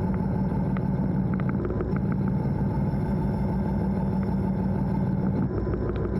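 EMD diesel locomotive running steadily, heard from inside the cab as a constant low hum, with scattered light clicks and rattles about a second in and again near the end.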